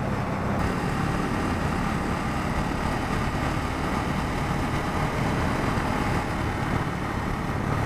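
Bajaj Pulsar N250's single-cylinder engine running steadily while the motorcycle cruises, under an even rushing noise.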